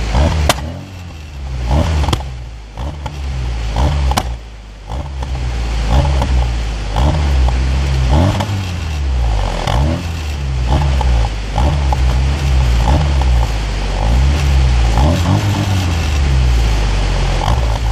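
Car engine and exhaust revved over and over, the note climbing and dropping every second or two. A few sharp cracks come in the first few seconds.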